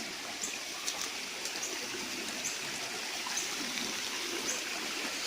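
Steady running of a shallow river flowing over rocks, with faint small ticks now and then.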